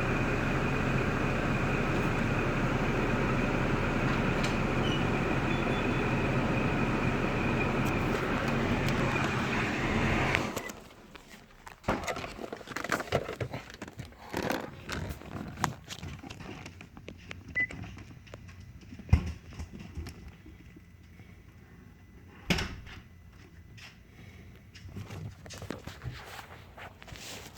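2005 Cadillac STS's 3.6 L LY7 V6 engine running steadily, then stopping abruptly about ten seconds in. After it, scattered clicks and knocks.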